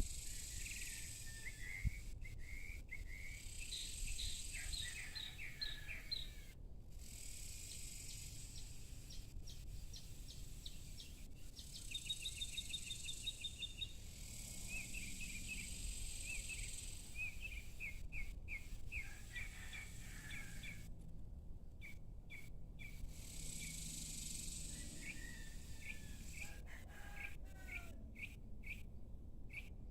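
Small birds chirping in series of short repeated notes, with a fast even trill near the middle, over a steady low background rumble.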